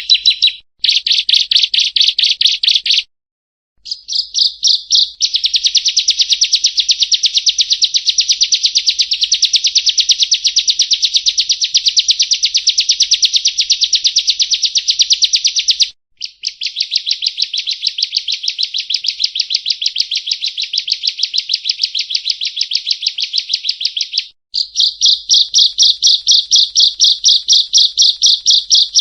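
Bar-winged prinia (ciblek kristal) singing in long, fast runs of sharp, evenly repeated high chirps, several notes a second. The runs break off briefly a few times and start again.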